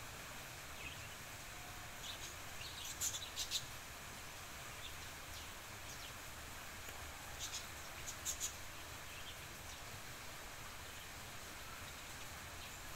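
Steady outdoor background noise with two brief clusters of high, sharp bird chirps, the first about three seconds in and the second about eight seconds in. These are small birds, not the low cooing of a dove.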